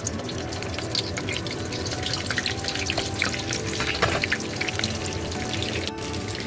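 Masala-stuffed brinjals shallow-frying in oil in a pan: a sizzle with irregular crackles and pops as they cook. Background music plays throughout.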